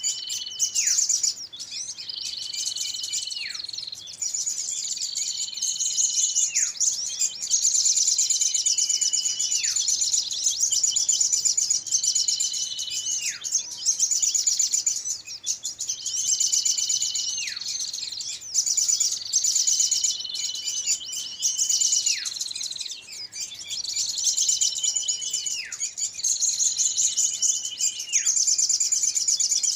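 Bird-lure recording of small birds calling excitedly, used to draw small birds in. A whistled call holds a high note and then drops sharply, repeating about every second and a half over steady, rapid, high-pitched chattering.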